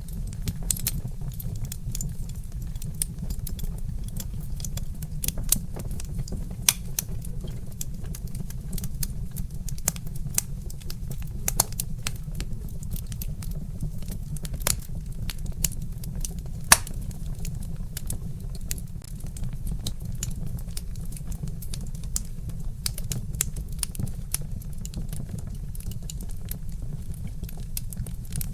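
Wood fire crackling: frequent, irregular sharp pops and snaps over a steady low rumble, with one louder snap a little past halfway.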